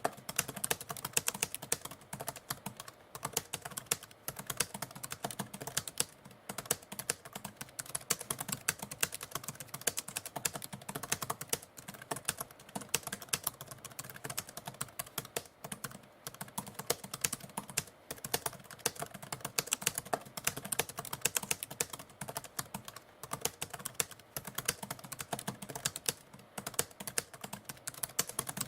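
Manual typewriter typing: a rapid, irregular run of key strikes with short pauses between bursts.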